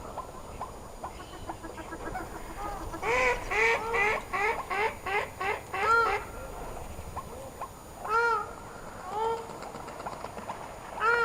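Geese honking: a quick run of about eight honks, roughly three a second, then a few single honks spaced out toward the end.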